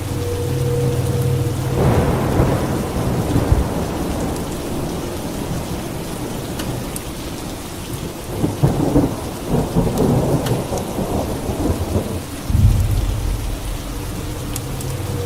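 Steady rain with thunder rolling again and again. Crackling peals come about two seconds in and again past the middle, and a deep low rumble builds near the end.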